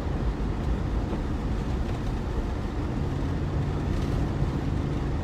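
Steady low rumble of a vehicle driving on a snow-covered road, heard from inside the cabin, with the defroster fan blowing.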